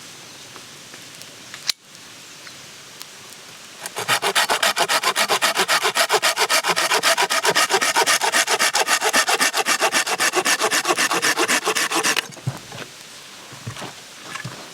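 Hand saw cutting through wood with quick, even rasping strokes. The sawing starts a few seconds in and runs for about eight seconds, then stops.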